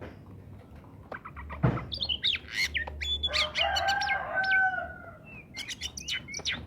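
Oriental magpie-robin singing a run of sharp whistled notes, quick slurs and clicks, starting about two seconds in. A rooster crows once in the middle, and there is a single thump just before the song starts.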